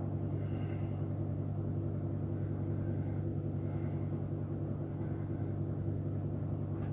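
Steady low electrical hum of a heater running in a garage, with two faint soft hisses, about half a second and about four seconds in.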